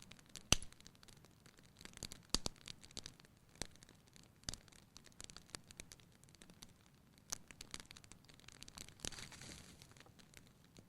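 Fire crackling in a fireplace: irregular sharp pops and snaps, the loudest about half a second in, with a brief hiss about nine seconds in.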